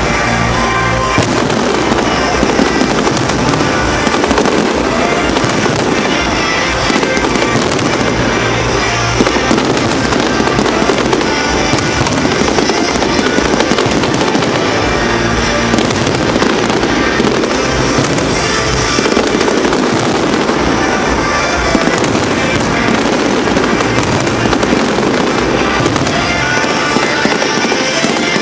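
A large aerial fireworks display: a dense, unbroken barrage of bursts and crackling, with music playing underneath.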